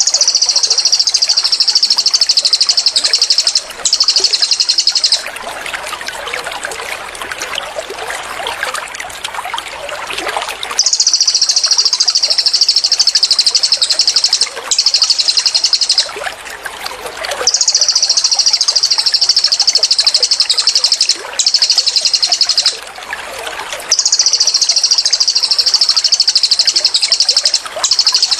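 A cililin songbird's rapid-fire trilled bursts, high and buzzing, each lasting a few seconds with short gaps between them, over trickling water. From about five to eleven seconds in the trills stop, and only the water and softer chirps are heard.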